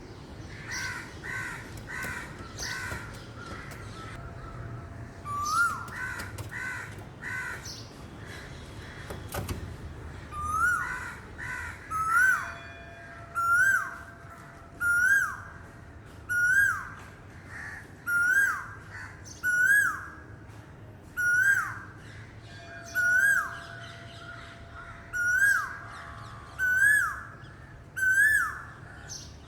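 Asian koel (koyal) calling: from about ten seconds in, a loud rising whistled note repeated regularly, about one every second and a half, the male's 'ku-oo' song. Before that, a quicker run of shorter calls a few per second.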